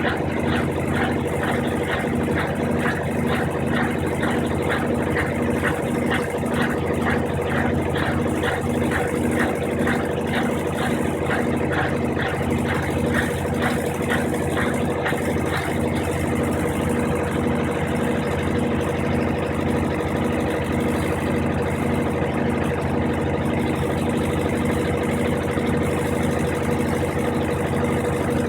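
Brastemp 15 kg washing machine running steadily: a motor hum with a regular pulsing whir about two to three times a second, and a rhythmic swishing that fades out about halfway through.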